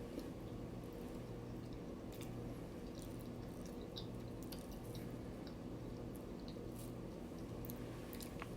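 Faint chewing with small wet mouth clicks scattered through, over a steady low electrical hum.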